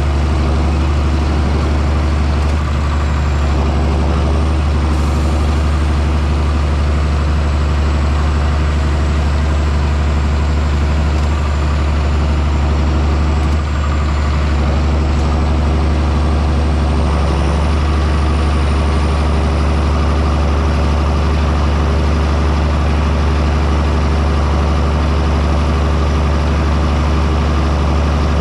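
John Deere 6630 Premium tractor's six-cylinder diesel engine running steadily under load while plowing, with a faint high whine above it.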